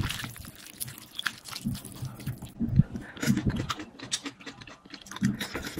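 A person chewing a mouthful of noodles close to the microphone, in irregular clicks and soft thumps.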